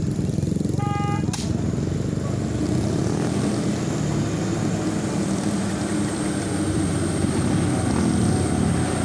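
A palm-oil truck's diesel engine running steadily as the truck drives along, with a short beep about a second in.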